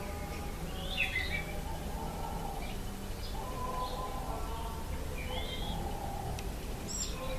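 Small wild birds chirping outdoors, with short bursts of chirps about a second in and again a little past halfway, over steady outdoor background noise.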